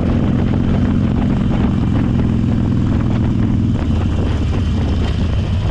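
Motorcycle engine running under way, heard from the bike itself, with its pitch dropping about four seconds in as the rider eases off or changes gear.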